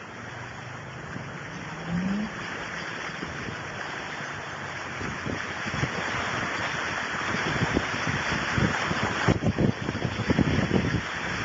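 Heavy rain and rushing water hissing steadily around a car during a violent storm, with irregular wind buffeting on the phone's microphone that grows stronger and more frequent toward the end.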